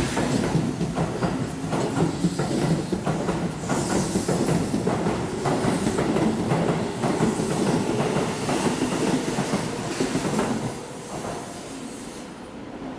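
Keihan electric commuter train moving along the platform, its wheels clacking over the rail joints in a rapid run of clicks. The sound drops away about eleven seconds in.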